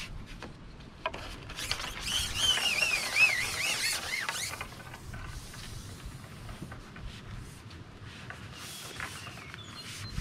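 A songbird singing one warbling phrase of wavering whistled notes, starting about two seconds in and lasting a couple of seconds. A few small clicks sound over faint outdoor background noise.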